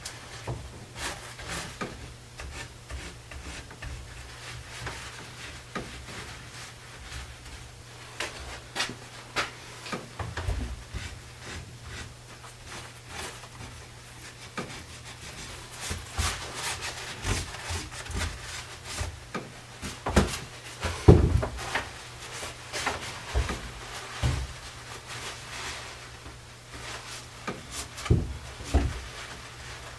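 Irregular knocks and rubbing of wood as a glued and clamped wooden chair frame is handled and wiped down, with one louder knock about two-thirds of the way through, over a low steady hum.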